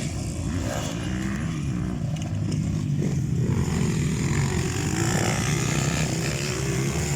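Several motocross bikes' engines running together, their pitch wavering slightly up and down.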